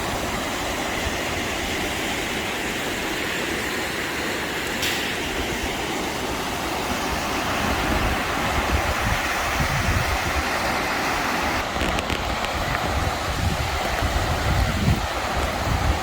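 Steady rush of the Sheep River's water below the cliff. In the second half, wind buffets the microphone with uneven low rumbles.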